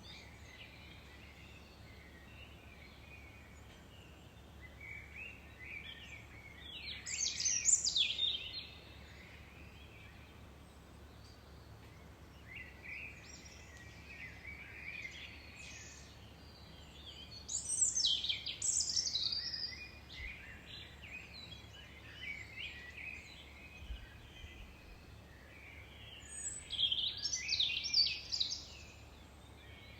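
Songbirds singing: bursts of quick chirping, trilling phrases come and go, loudest about a quarter, two thirds and nine tenths of the way through, over a faint steady low hum.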